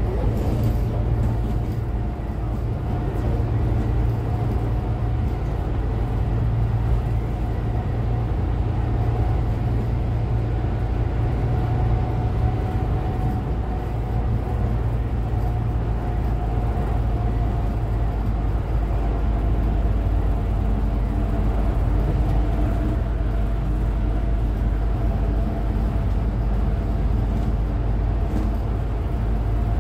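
Cummins ISF3.8 3.8-litre four-cylinder diesel engine of a Daewoo Lestar minibus, heard from on board, running steadily with a low hum and a thin whine that drifts slightly lower in the second half.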